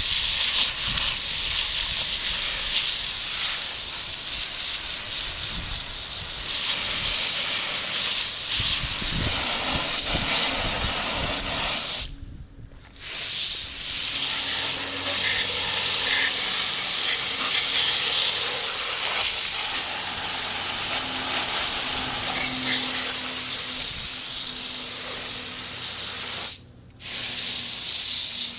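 Water spraying from a hose nozzle onto a window air conditioner's dirty evaporator coil, a steady hiss that stops briefly twice as the nozzle is let off.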